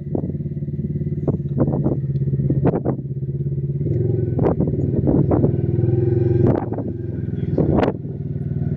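Off-road vehicle engine running under steady throttle. It rises in pitch about four seconds in and drops back at about six and a half seconds, with a scattering of sharp knocks and clatter over it.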